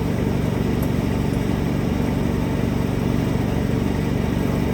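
An engine idling steadily: a low, even rumble with a fast regular pulse.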